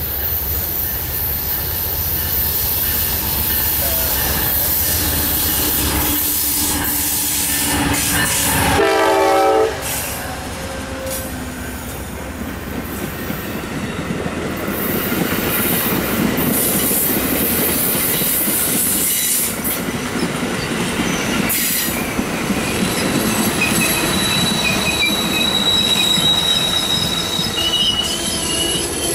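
Amtrak passenger train passing close by: a steady rumble of the train on the rails, a short horn blast about nine seconds in, then the coaches rolling past with a thin high wheel squeal near the end.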